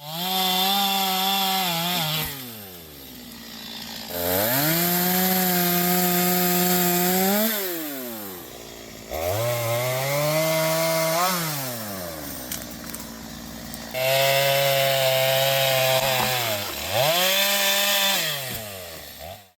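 Stihl two-stroke chainsaw revved to full throttle and let back down toward idle about five times, each burst held for two or three seconds with the pitch sliding up and down between.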